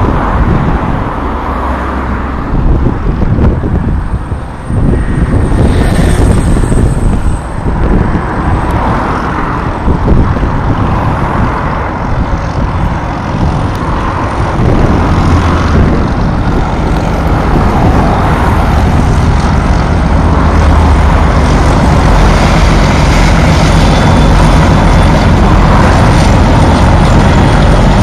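A pair of Class 31 diesel locomotives passing under power with a heavy freight train, their V12 diesel engines running hard with a loud, steady drone that grows louder through the second half.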